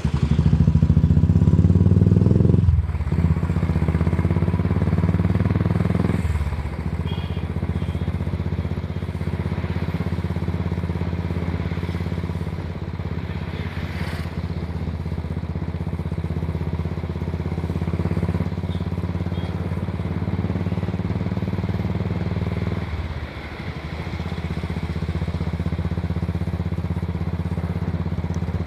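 Royal Enfield 500cc single-cylinder motorcycle engine running under way, heard from the rider's seat. It is loudest for the first few seconds, and the engine note drops off briefly three times, about three, six and twenty-three seconds in.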